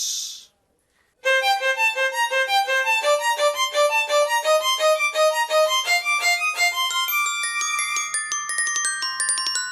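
Glockenspiel struck in a fast pecking patter, starting about a second in, its notes climbing step by step. A violin joins with held notes in the second half.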